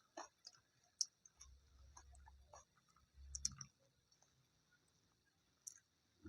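Faint close-miked mouth sounds of someone eating: scattered small wet clicks and smacks, with two short stretches of soft chewing.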